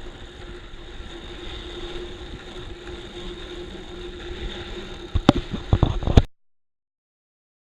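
Bicycle rolling over a rough, sandy dirt track: steady riding noise with a faint steady hum, then a cluster of sharp knocks and rattles about five seconds in. The sound cuts off abruptly after about six seconds.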